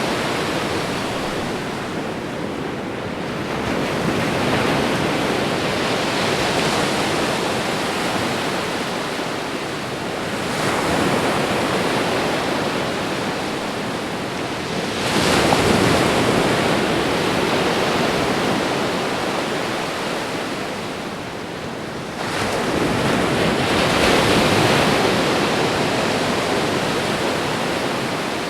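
Ocean waves breaking and washing on a shore: a continuous rushing surf that swells in several slow surges, the loudest about halfway through.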